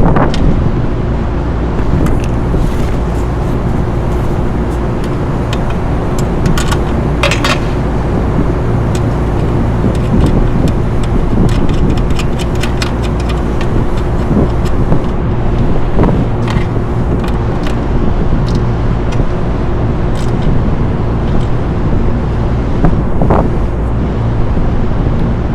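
Steady mechanical drone with a low hum, typical of running rooftop machinery, with scattered light clicks and knocks, a few louder ones around a third of the way in, past the middle and near the end.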